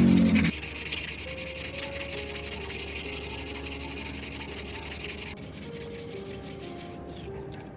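A loud motorised tool stops about half a second in. Steady rapid rubbing strokes of sanding follow and stop about five seconds in.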